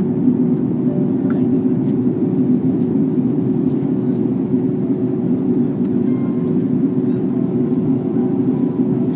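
Steady low rumble of an airliner during landing, with a faint steady hum running through it.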